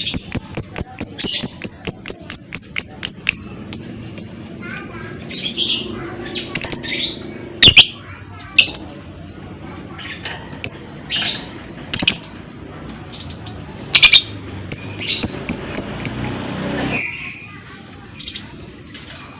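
Lovebird calling: a fast run of shrill, clipped chirps for the first few seconds, then scattered single chirps and short bursts, with another quick run of chirps near the end.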